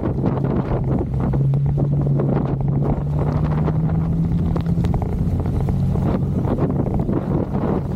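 Motorcycle engine running while riding, its pitch rising gradually for a few seconds and easing back about halfway through, under heavy wind buffeting on the microphone.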